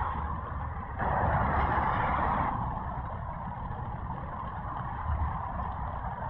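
Road traffic on a nearby dual carriageway: a steady low rumble and tyre noise, with one vehicle passing loudest from about a second in until the sound eases off a second and a half later.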